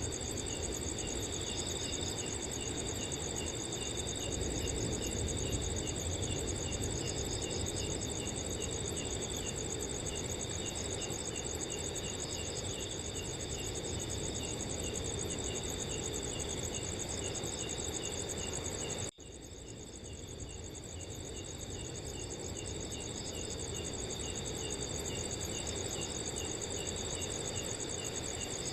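A chorus of crickets chirping: several steady high trills overlapping, with one cricket repeating a short chirp a few times a second, over a low wash of wind. About two-thirds of the way through, the whole sound cuts out for an instant and then swells back.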